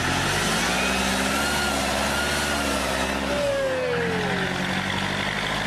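Big diesel truck engine running, its pitch rising and then settling, with a falling whine about halfway through.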